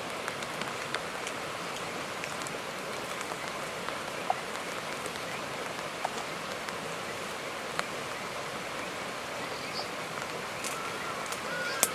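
Steady rain falling, with scattered sharper taps of single drops striking a surface.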